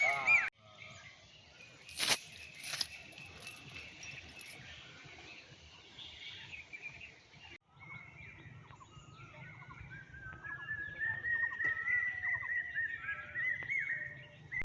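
Birds chirping and calling over faint outdoor background noise. There are two sharp knocks about two seconds in, and a longer warbling call in the second half.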